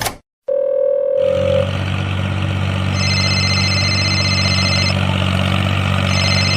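A motor engine running at a steady speed, starting about a second in after a short steady tone. A high steady tone sounds over it twice, about halfway through and again near the end.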